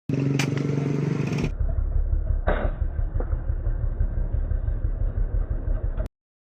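Low engine-like rumble with an uneven pulsing, after a short stretch of steady pitched humming in the first second and a half. Both parts start and stop abruptly.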